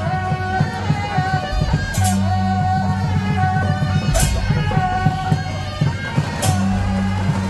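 Temple procession music: suona reed horns playing a melody over quick drumbeats, with a cymbal crash about every two seconds.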